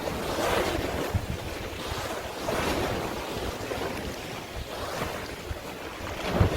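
Sea waves washing in swells that rise and fall every second or two, with wind buffeting the microphone in low rumbles.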